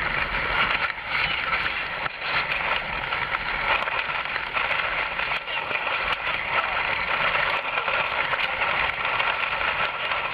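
Steady rush of water and wind as a Nacra 5.5 sailing catamaran runs fast through waves in strong wind, with a few faint knocks.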